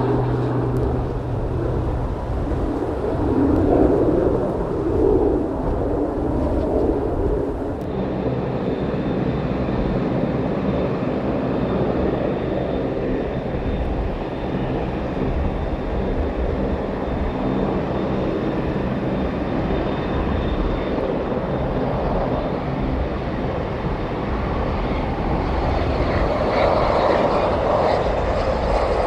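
Airplane engines running steadily, with a few steady engine tones in the noise. The recording cuts about eight seconds in to a different aircraft's engine noise, which swells near the end.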